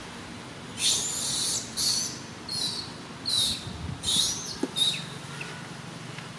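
Monkey giving a run of about seven short, high-pitched squealing calls, roughly one a second, some sweeping up and down in pitch.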